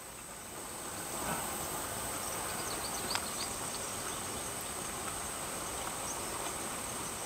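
Steady outdoor ambience: a constant high insect drone over a soft, even rush of noise that grows a little about a second in, with a few faint clicks.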